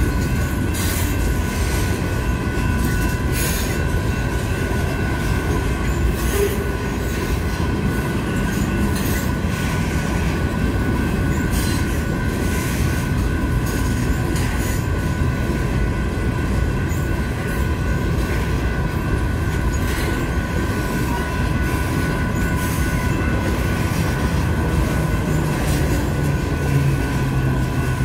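Loaded grain train of covered hopper cars rolling steadily past: a continuous rumble of wheels on rail with irregular clicks and clacks, and a thin steady high tone over it.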